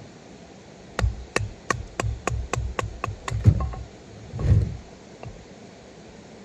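Batoning firewood: a wooden baton knocking on the spine of a knife driven into a log, about ten quick sharp strikes at roughly three a second, then a couple of heavier thuds.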